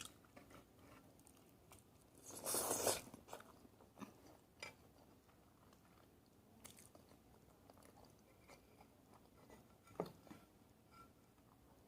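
A person eating during a mukbang: chewing and biting food close to the microphone, with one louder bite about two and a half seconds in, then faint scattered mouth clicks.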